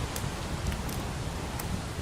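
Crackling fireplace giving a few sharp pops over a steady hiss of rain, with a low rumble underneath.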